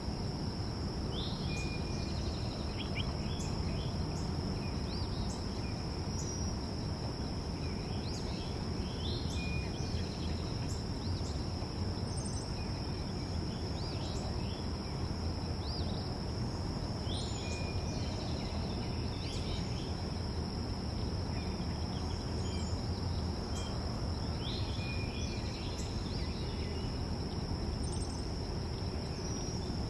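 Backyard ambience: a steady high-pitched insect drone over a constant low rumble, with short bird chirps scattered throughout.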